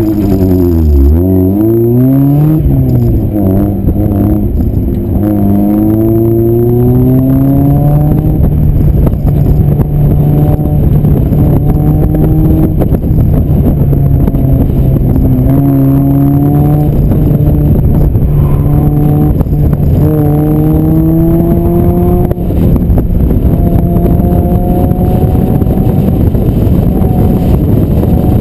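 Mazda MX-5 Miata's four-cylinder engine and exhaust on an autocross run: a hard launch with the note climbing sharply at the start, then revving up and dropping back over and over as the car accelerates and lifts through the course.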